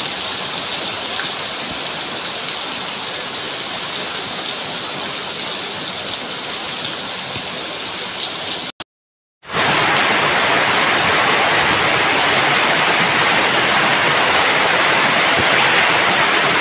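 Heavy rain falling steadily on gravel and puddled ground. It cuts out for under a second about 9 s in and comes back louder, with runoff pouring off a roof edge and splashing onto flooded ground.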